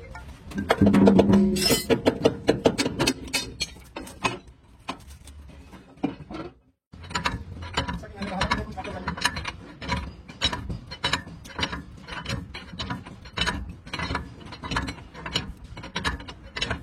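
Metal tool work on a truck's leaf spring pack while its centre bolt is fitted: rapid, irregular metallic clicking and clanking, louder in the first few seconds, with a brief break about seven seconds in.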